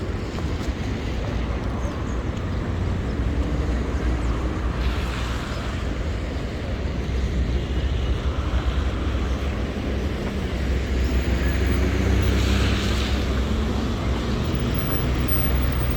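City street traffic on a wet road: vehicles passing with a steady hiss and engine hum, two louder swishes of passing vehicles about five and twelve seconds in, and an engine rising in pitch in the second half. Low wind rumble on the microphone runs underneath.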